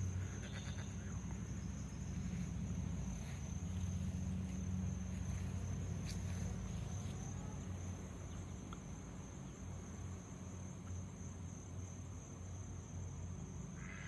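Insects holding a steady high-pitched drone over a low, steady rumble.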